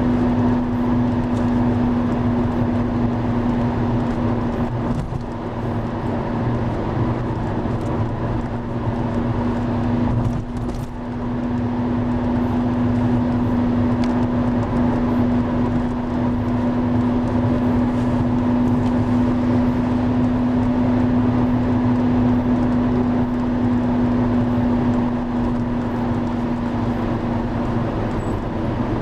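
Steady rush of a river in heavy flood, with a steady low hum running alongside it that fades out near the end.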